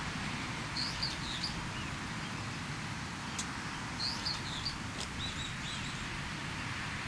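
Small birds chirping in three short clusters of high notes over a steady low rushing background, with two sharp ticks in between.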